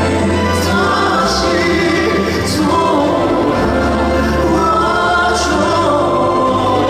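Male crossover vocal group singing a slow ballad live, voices in harmony over accompaniment with long-held low bass notes.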